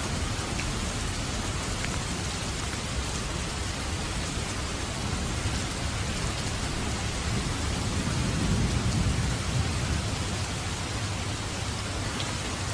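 Steady rain falling, an even hiss, with a low rumble of distant thunder swelling and fading about eight seconds in.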